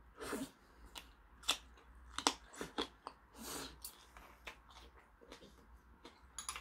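A person chewing food close to the microphone: irregular crunches and wet mouth sounds.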